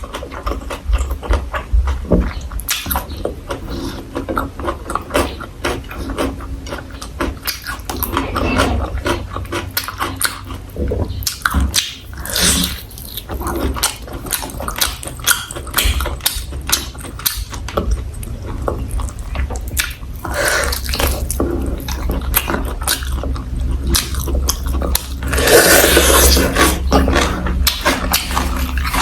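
Close-miked chewing and crunching of food, a steady stream of small wet clicks and smacks, with a louder stretch near the end. A steady low hum runs underneath.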